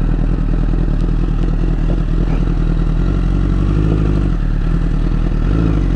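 Honda CBR1000RR's inline-four engine running under throttle at fairly steady revs, with small rises in pitch, as the rear tyre spins in snow and the bike makes no headway.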